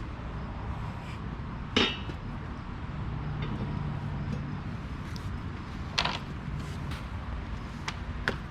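Sharp clicks and clinks of a tail light housing, its screws and its wiring being handled, loudest about two seconds in and again about six seconds in, with a lighter one near the end. A steady low hum runs underneath.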